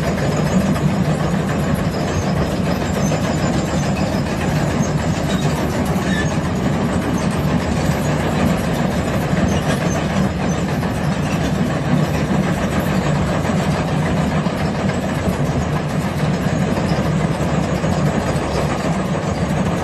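Heavy machinery running steadily inside a Marion 8200 mining dragline's cab, an even mechanical hum with a strong low drone that holds level throughout.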